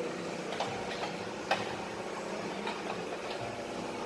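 Irregular sharp clicks and light taps of hand tools on metal, about five in four seconds, over a steady low hum.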